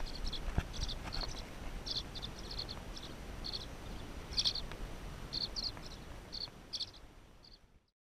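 A bird chirping in many short, high notes at an uneven pace over a low outdoor rumble. It all fades out just before the end.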